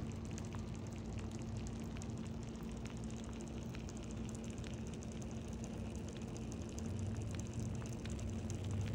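Chicken, potato and cheese soup bubbling gently in a slow cooker, with a steady crackle of small bubbles over a low electrical hum.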